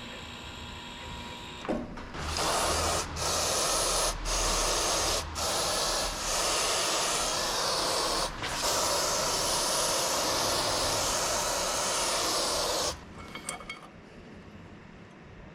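Aerosol parts cleaner spraying in a long hissing stream, with a few brief breaks where the nozzle is let go. It stops about two seconds before the end.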